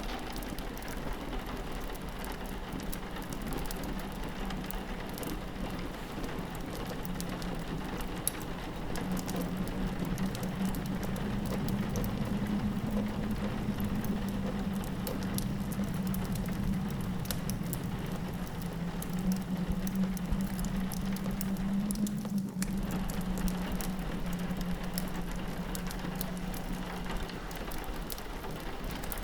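Rain pattering on a window, with a fireplace crackling and wind moaning low outside. The wind swells about a third of the way in and eases near the end.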